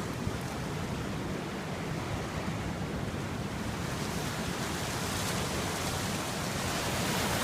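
Steady rushing of river water, with some wind rumble on the phone's microphone, slowly growing louder toward the end.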